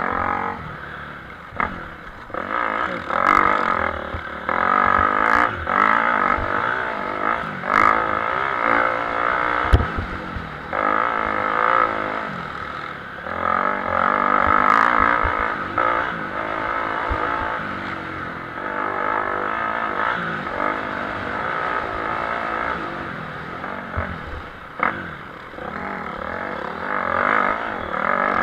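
Motocross motorcycle engines racing, revving up and dropping back over and over as the riders work through the gears. A sharp thump stands out about ten seconds in.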